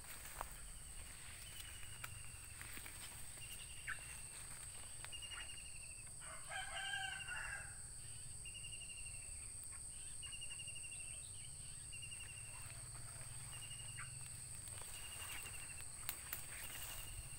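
A rooster crows once, about six and a half seconds in, the loudest sound here. Under it runs a steady high insect drone, and short high trilled bird calls repeat about once a second.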